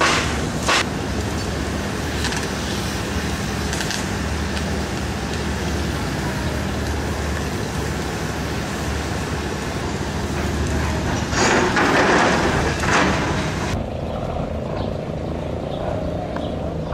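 An engine running steadily under a wide rushing noise, with louder swells of noise about two-thirds of the way through. Near the end the high hiss drops away abruptly, leaving the low engine hum.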